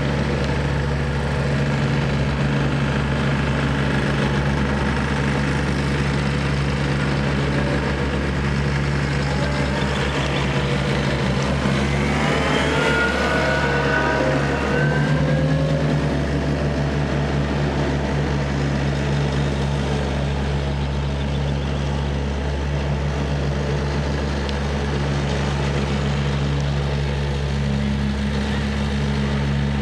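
Diesel engine of a Wacker Neuson 75Z3 midi excavator running steadily. About halfway through, a higher whine rises and falls in pitch for a few seconds as the machine works, and near the end the engine note drops slightly.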